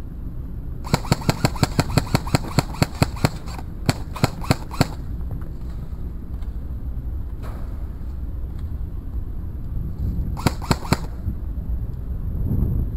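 Airsoft rifle firing: a rapid string of shots starting about a second in and lasting a couple of seconds, a few more spaced shots right after, and a short burst near the end, over a steady low rumble of wind on the microphone.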